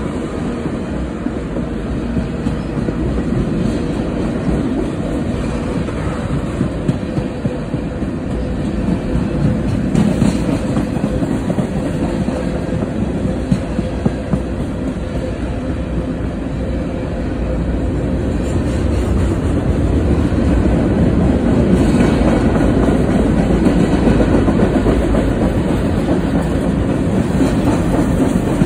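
Freight train of tank cars and covered hoppers rolling past, a steady rumble sprinkled with wheel clicks. It grows louder about two-thirds of the way through.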